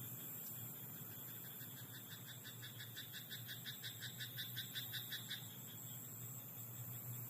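A frog in a rice paddy calling a quick run of croaks, about five a second, that grows louder and then stops about five seconds in, over a steady high chorus of night insects.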